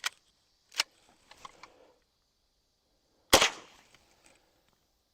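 A single shot from a .22 lever-action rifle about three seconds in, fading quickly. Two sharp clicks come before it, near the start and just under a second in.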